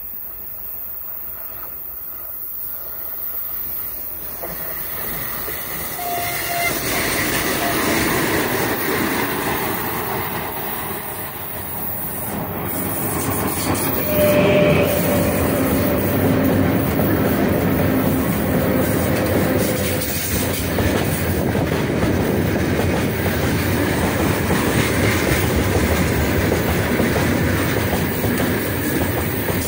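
4ES5K 'Ermak' twin-section electric locomotive hauling a freight train past at close range. The rumble grows as it approaches and is loudest as the locomotive goes by about halfway through, then the loaded wagons' wheels keep up a steady clickety-clack over the rail joints.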